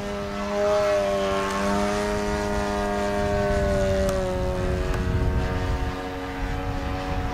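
Model airplane's O.S. FS-52 four-stroke glow engine and propeller running in flight, a steady buzzing note whose pitch rises slightly about half a second in and then sinks slowly over the next few seconds.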